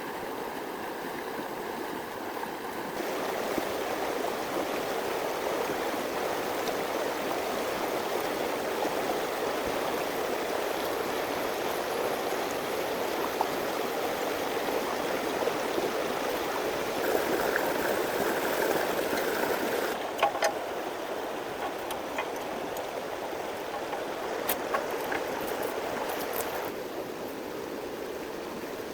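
Steady rush of water, changing in strength a few times, with a few light clicks late on.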